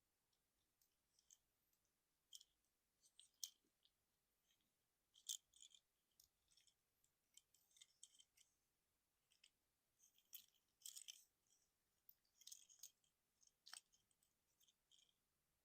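Faint plastic clicks and light rattles of a Transformers Trailcutter action figure being handled, its parts swivelled and snapped into place during transformation. The clicks come irregularly, some singly and some in quick clusters.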